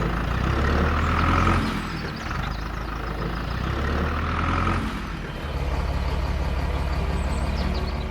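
An engine running with a steady low hum. Its note shifts about a second and a half in and again about five seconds in, and settles into a fast, even throb for the last few seconds.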